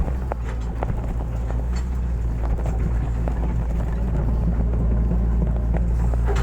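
Hitachi excavator's diesel engine running steadily under load, with scattered knocks and clanks from the machine at work.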